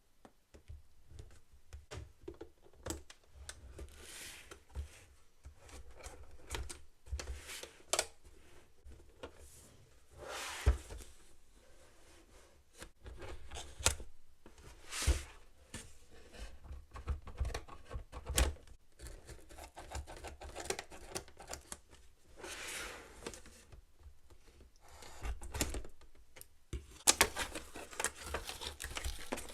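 Toys and their packaging being handled and unpacked by hand: irregular clicks, taps and a few sharper knocks, with stretches of rustling and tearing.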